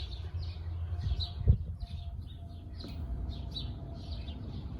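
Small birds chirping over and over, several short chirps a second, over a low steady rumble. A single sharp knock about one and a half seconds in.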